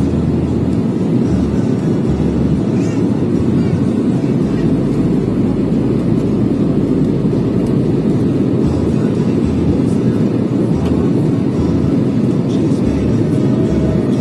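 Airliner noise: a steady low drone of jet engines and rushing air, even in level throughout.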